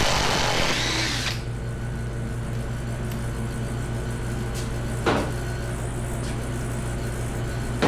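A power tool runs briefly during the first second and a half, loosening engine-mount fasteners on a Ford 5.4 2V V8. It is followed by a steady low hum and two sharp metal knocks, one about five seconds in and one near the end.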